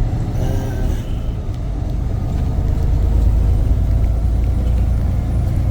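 Semi-truck engine and road noise heard from inside the cab while driving: a steady low rumble.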